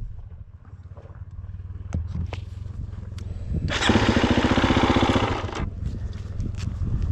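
Husqvarna FE250's 250 cc single-cylinder four-stroke engine running at low speed, swelling much louder for about two seconds around four seconds in before settling back.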